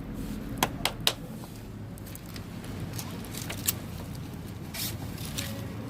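Small paper-and-twig campfire catching, giving a few sharp crackles and pops, three in quick succession about a second in and one more midway, over a low steady hum.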